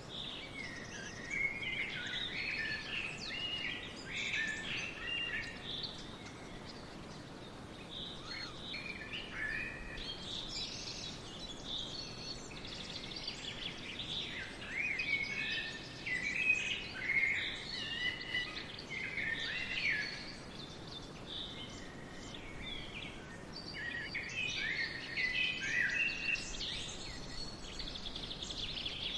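Several songbirds singing and chirping together in a forest, many short warbled phrases overlapping over a faint steady hiss, busiest in a few stretches.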